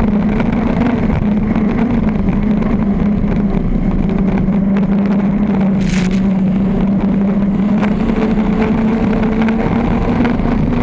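V-drive circle race boat's engine running loud at a steady pitch, heard onboard. There is a brief hiss about six seconds in.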